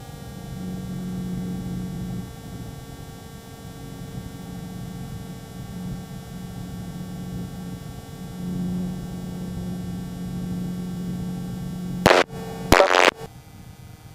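T600N Sprint microlight's engine droning steadily in flight, heard from the cockpit, its low note swelling and easing a little. About 12 seconds in come two short, loud crackles.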